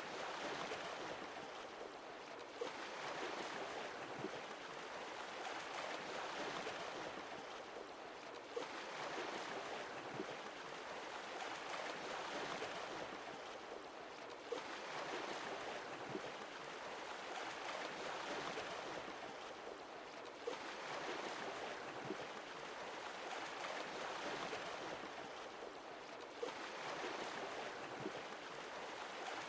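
Sea waves washing ashore, the surf swelling and easing off about every six seconds.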